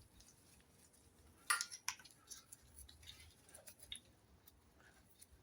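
A few light clicks and one sharper metallic clink about a second and a half in, from small engine parts and hand tools being handled.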